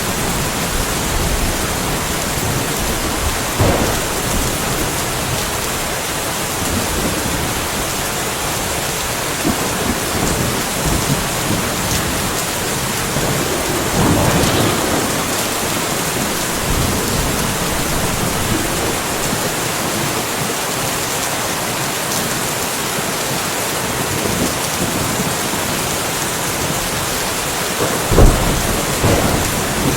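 Steady rainfall with thunder. Brief swells of thunder come about 4 and 14 seconds in, and a sharp, close crack of thunder near the end is the loudest moment.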